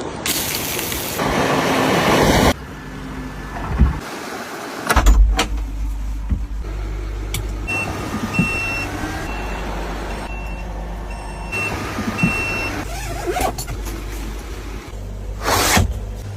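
A motor vehicle's engine running with a steady low hum, broken by several abrupt cuts, and a high electronic beep repeating in short pulses midway.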